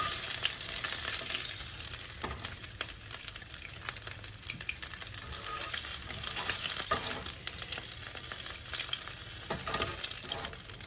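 Butter and oil sizzling in a hot skillet over medium-high heat, with many fine crackles, on the brown bits left from sautéing chicken.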